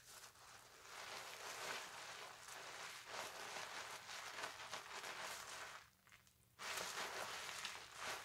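Wet loofah scrubbing over a lathered bar of soap, a continuous scratchy, squishy rubbing that pauses briefly about six seconds in and then resumes louder.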